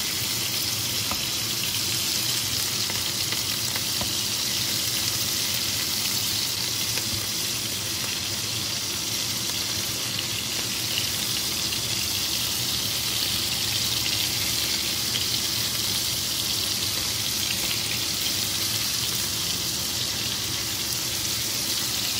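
Pork-and-beef meatballs frying in hot oil in a deep pan, a steady even sizzle.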